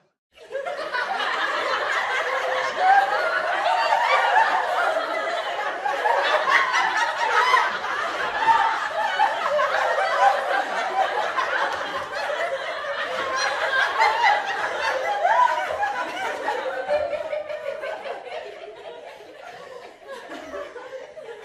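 A group of people laughing together, many voices overlapping in a steady wash of laughter that fades down over the last few seconds.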